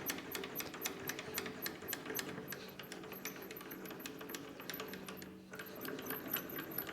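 Creworks 8x16 mini lathe's slide mechanism being worked by hand to check it after re-lubrication and adjustment: a rapid run of light metallic clicks and ticks, pausing briefly a little after five seconds in.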